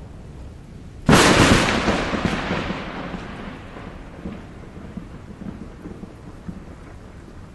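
Close thunderclap: a sudden sharp crack about a second in, then a rumble that fades over the next few seconds.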